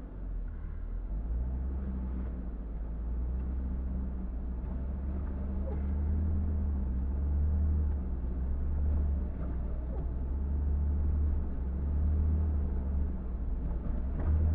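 Car driving on a snowy street: a steady low rumble of engine and tyres that swells and eases slightly.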